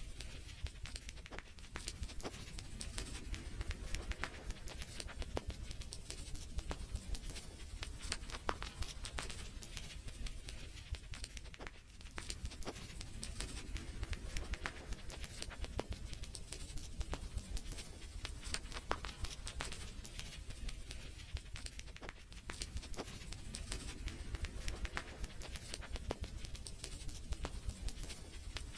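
Wood fire crackling: irregular sharp pops and snaps, often several a second, over a low steady rumble.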